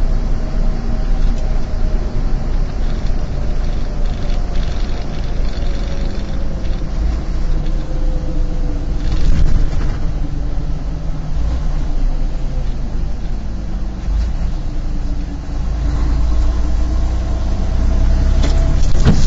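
Steady low engine and road rumble inside a moving vehicle's cab, with a few sharp knocks near the end.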